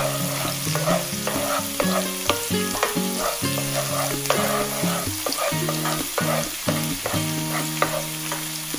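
Chopped garlic and red onion sizzling in hot oil in a nonstick frying pan, stirred with a wooden spatula that scrapes and taps against the pan now and then.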